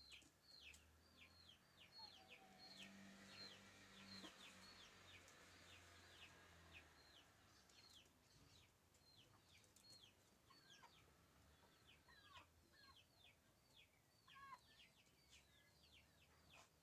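Faint bird chirping: a steady run of short, high, falling notes, two or three a second.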